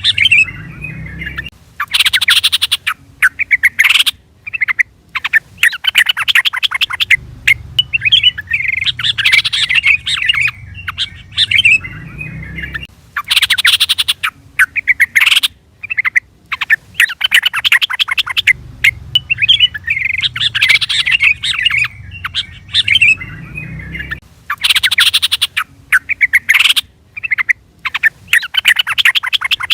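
Yellow-vented bulbul (trucukan) singing and calling: loud bursts of rapid, chattering chirps, repeated over and over with short pauses between phrases.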